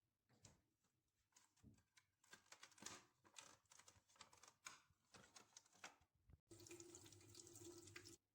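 Faint, irregular clicks and taps of objects being handled. About six and a half seconds in, a steady rushing sound starts and runs for nearly two seconds before it cuts off suddenly.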